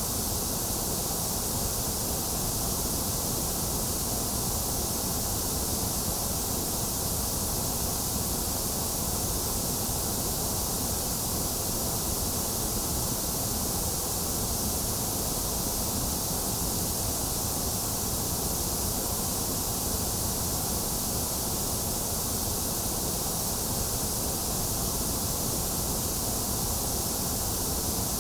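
Steady, unchanging white-noise hiss, with its weight in the high, hissy end.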